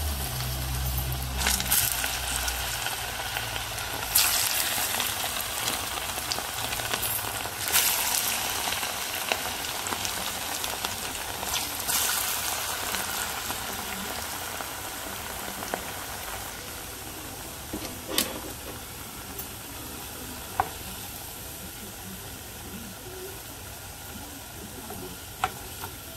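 Plantain strips deep-frying in hot oil: a steady sizzle with scattered sharp pops, slowly getting quieter as the frying goes on.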